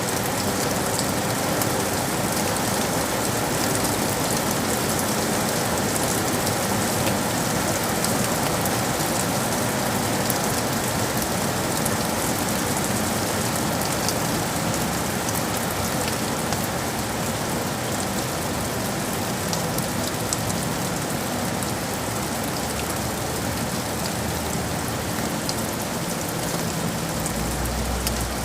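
Steady rain falling in a city, a dense even hiss with fine droplet ticks. A low rumble comes in near the end.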